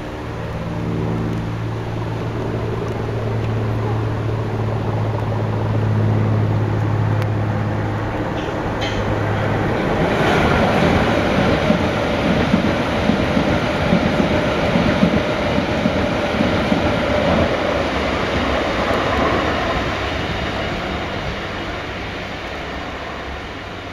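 A steady low diesel engine drone for the first ten seconds or so. Then a London Underground electric train runs past close by, its wheels clattering over the rail joints, and fades away into the distance.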